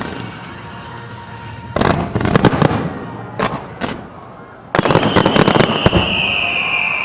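Aerial fireworks crackling in dense clusters of rapid sharp pops, two bursts of crackle with a couple of single pops between them. Near the end a high whistling tone starts and slides slowly down in pitch.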